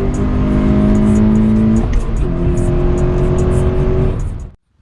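A car driving, with its engine note holding steady and then stepping to a new pitch about two seconds in, mixed with background music that has a steady beat. Both fade out near the end.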